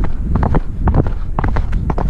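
A horse galloping: a fast, uneven drumming of hoofbeats, the strikes coming in quick clusters a few times a second.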